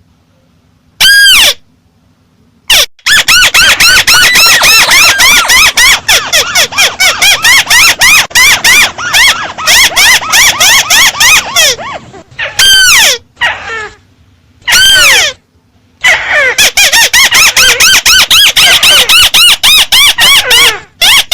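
Amplified recording of 'chim mắt xéo' bird calls, very loud: single long arched whistled calls and fast runs of short arched notes about four or five a second, with a run from about 3 to 12 seconds in, two lone calls after it, and another run from about 16 seconds in.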